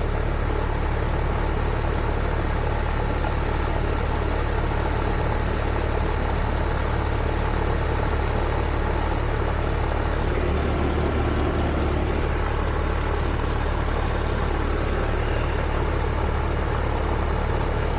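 Rheem heat pump outdoor unit running steadily in cooling mode: compressor and condenser fan humming while it is charged with refrigerant through the suction side because it is short of gas.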